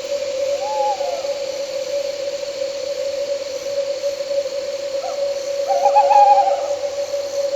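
Owl hooting at night over a steady high trill of crickets and a steady low drone: one short arched call about half a second in, then a longer wavering call around five to six seconds in.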